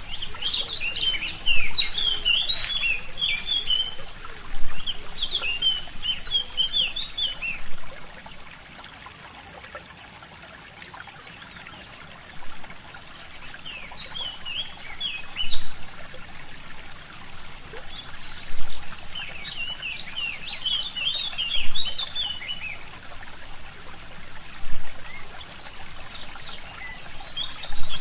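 Small songbirds singing in bursts of quick, chirping phrases over a steady trickling stream. There is a lull in the song about a third of the way in.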